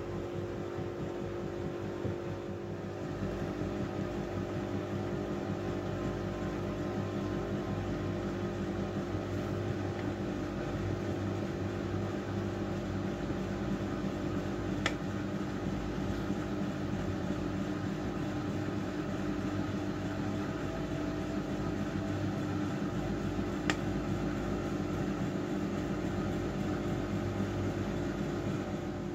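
Miele W433S washing machine running, its drum motor humming steadily at a constant speed, with two brief sharp clicks.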